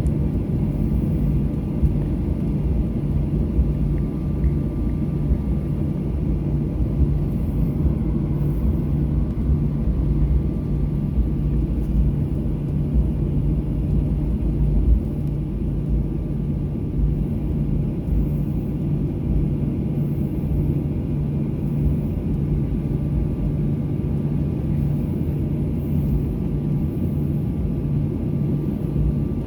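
Steady low cabin rumble inside a Boeing 737-800 taxiing after landing, with the even hum of its CFM56 engines at idle running through it.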